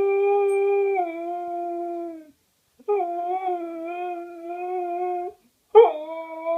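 Siberian husky howling. A long held howl drops in pitch about a second in and fades out. After a short pause comes a second, wavering howl, then a third that begins with a sharp upward swoop near the end.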